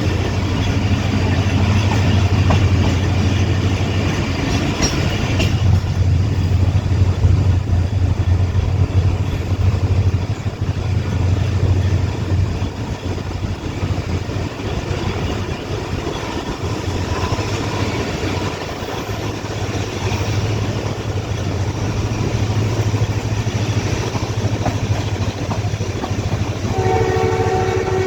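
Passenger train running along the track behind a diesel locomotive, a steady low rumble with wheel and coach noise. Near the end the locomotive's horn starts to blow, a held multi-tone note.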